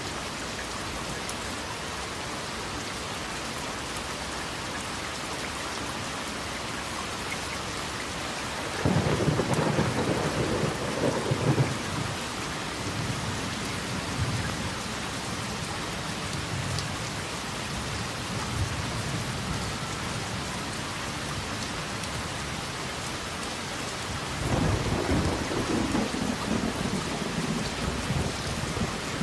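Steady rain with two rolls of thunder: one begins about nine seconds in and lasts a few seconds, and a second begins near the end and rumbles on.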